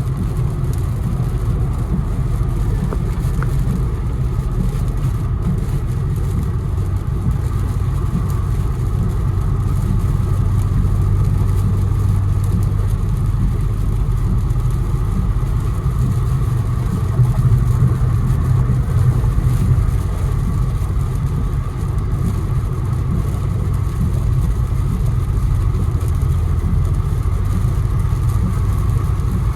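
Infiniti Q60 being driven on wet roads: steady engine and road noise, the engine note swelling a little twice in the middle.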